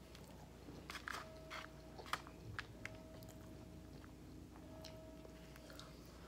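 Quiet close-up chewing and eating mouth sounds as rice and roast pork are eaten, with a scatter of faint sharp clicks, most of them in the first half.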